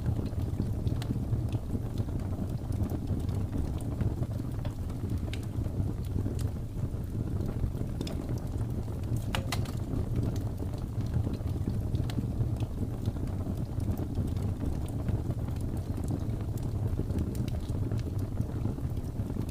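Blizzard wind howling as a steady low rumble, overlaid with the scattered sharp pops and crackles of a wood fire, including a brighter burst of pops about halfway through.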